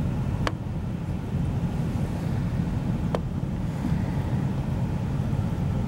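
Steady low rumble inside a Class 175 diesel multiple unit running along the line. Two sharp clicks come through, one about half a second in and one about three seconds in.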